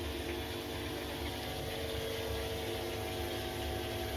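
Korting KWM 47B1060 washing machine running with a steady motor hum and low rumble, its drain pump pumping the water out before the spin begins.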